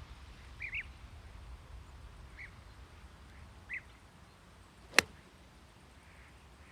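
A 9-iron striking a golf ball once, a single sharp click about five seconds in. Before it, a few short bird calls.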